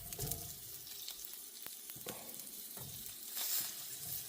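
Chunks of ham sizzling in a frying pan, a steady hiss that swells briefly near the end, with a few light clicks.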